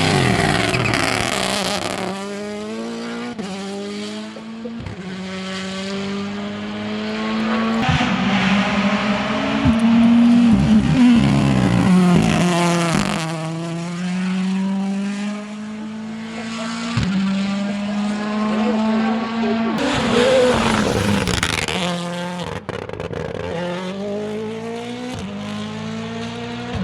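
Rally car engine being driven hard through the gears. The pitch climbs steadily and drops sharply at each shift or lift, several times over, with some tyre noise.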